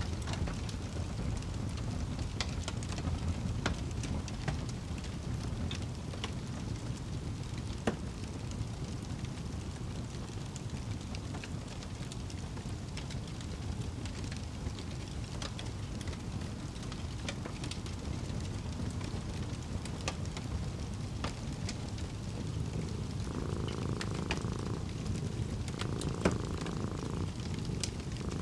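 A cat purring in a low steady rumble over a fireplace crackling with scattered sharp pops. About 23 seconds in, a second, higher-pitched layer of the sound comes in three stretches of a second or two each.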